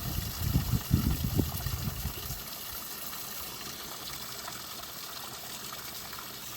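Small waterfall on a mountain creek, water rushing and splashing steadily. Low rumbling bumps sit under it for the first two seconds or so.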